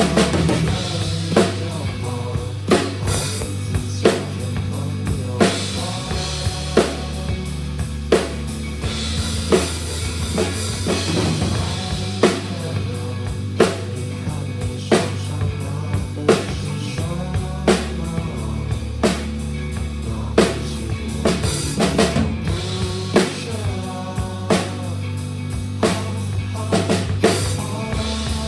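Drum kit played along with a recorded rock track carrying bass and guitar, with a strong hit landing about every 1.3 seconds on a steady beat.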